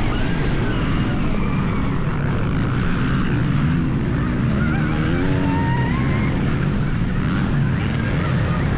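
80 hp Stark Varg electric motocross bike's motor whining under way, its pitch falling and rising several times as the rider rolls off and opens the throttle, over a steady low rumble.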